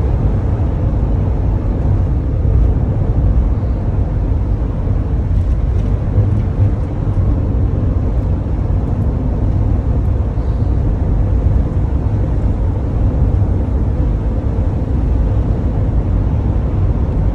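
Tour coach on the move: a steady, even rumble of engine and road noise, heard from on board.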